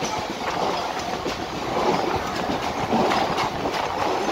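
Mumbai local electric trains running at speed, heard from an open coach doorway: a steady rumble of steel wheels on rail with repeated clicks as the wheels cross rail joints.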